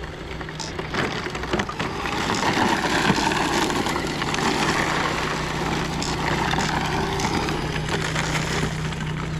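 Traxxas Ford rally RC car with a brushed electric motor driving over rough dirt, its tyres crunching and crackling on the loose ground over a steady low hum.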